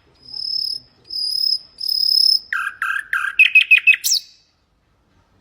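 Nightingale singing one song phrase. It opens with three long, pure whistles that grow louder, drops to a run of lower notes that quickens into fast repeated notes, and ends with a quick upward sweep about four seconds in.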